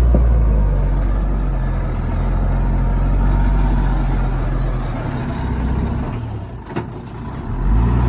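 Heavy diesel engine of earthmoving machinery running with a steady low drone. It eases off about six seconds in, then picks up again near the end.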